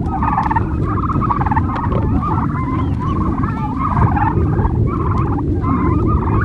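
A flock of domestic turkeys gobbling and calling over one another in a continuous chorus, with a steady low rumble underneath.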